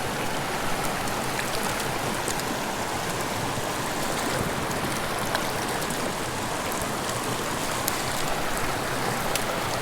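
Mountain creek water running steadily, with a few faint ticks.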